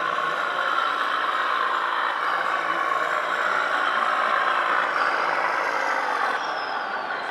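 Radio-controlled model truck running, a steady mechanical whine whose pitch dips and then rises again, easing off slightly near the end.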